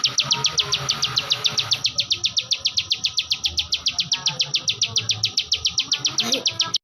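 Ciwah (klik-klik bird), a small prinia relative, singing in full voice: a fast, even run of high, sharp 'klik' notes, about nine a second, that stops abruptly near the end.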